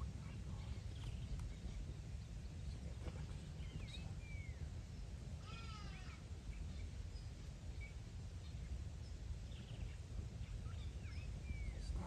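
Wild birds calling in the bush: short whistled calls that slide in pitch about four and again about eleven seconds in, and a quick run of sweeping notes around six seconds, over a steady low rumble.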